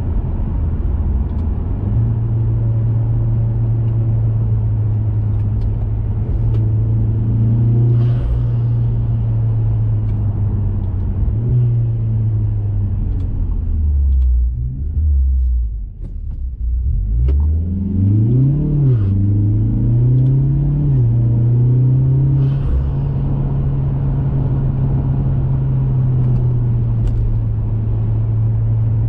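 2021 Mazda 3 Turbo's 2.5-litre turbocharged four-cylinder, breathing through an aftermarket high-flow intake and cat-back exhaust, cruising with a steady drone. About halfway the engine note falls away as the car slows. It then climbs twice in quick succession with a gear change between, before settling back to a steady cruise.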